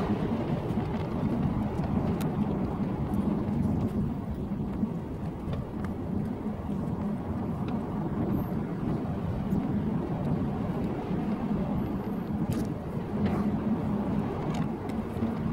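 Classic car driving at a steady speed, heard from inside the cabin: a low engine drone over road and tyre rumble, easing slightly in the middle and picking up again near the end.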